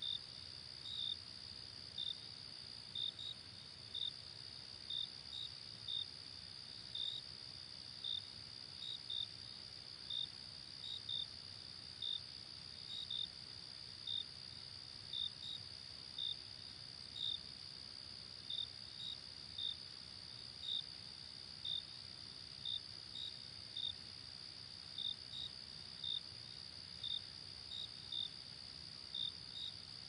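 Night insects chirping: a steady high-pitched trill with short, sharper chirps repeating irregularly about once or twice a second.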